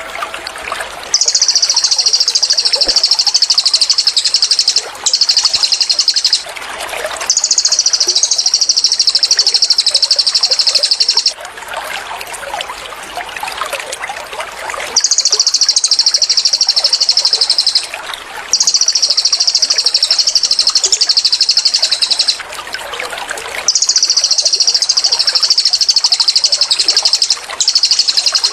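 Cililin bird singing its 'tembakan' (rapid-fire) song: long runs of fast, high repeated notes, seven bursts of about one to four seconds each with short pauses between them, over a steady trickle of water.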